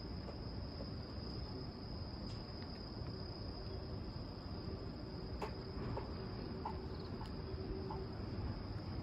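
Steady, high-pitched chirring of an insect chorus, crickets, over a low rumble, with a few faint clicks after about the middle.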